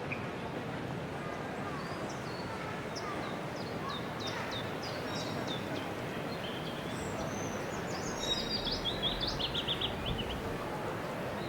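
Steady hubbub of a busy station concourse, with a songbird's high, quick chirps from about three seconds in and a fast run of them near the end.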